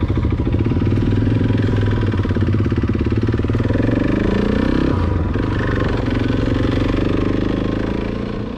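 Motorcycle engine running and pulling away, its revs climbing around the middle before the sound fades near the end.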